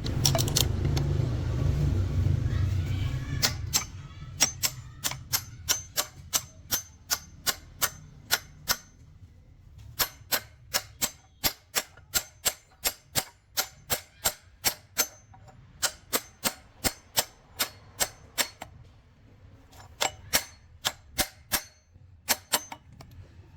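Hammer blows on steel, struck in runs of about two to three a second with short pauses between runs, each blow ringing briefly. A low rumble fills the first few seconds.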